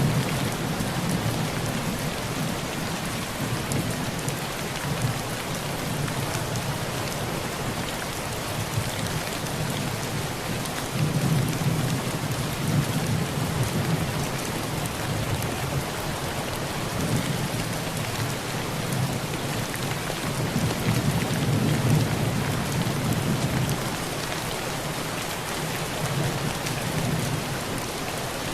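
Heavy rain drumming on a tin roof, a steady hiss, with low rolls of thunder that swell and fade several times, loudest around the middle and again about three quarters through.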